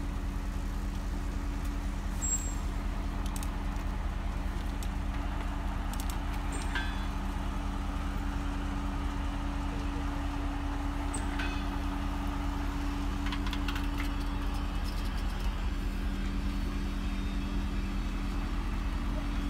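Standing passenger train's steady low hum, with two steady tones over a low rumble, and a few light clicks and squeaks.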